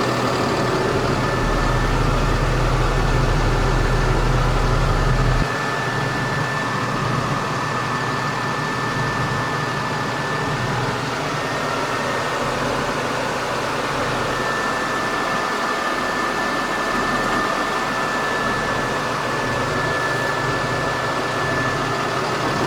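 Cummins 6.7L ISB inline-six diesel of a 2018 International 4300 dump truck idling steadily, with a thin steady whine above it. The deepest part of the rumble drops away suddenly about five seconds in.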